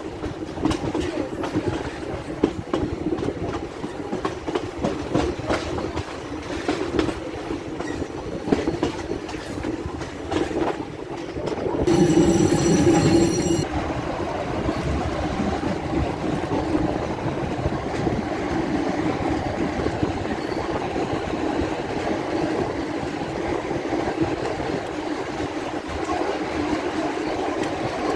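Passenger train running along the track: a steady rumble of the wheels, with clickety-clack clicks from the rail joints in the first part. About halfway through comes one loud pitched blast, about a second and a half long.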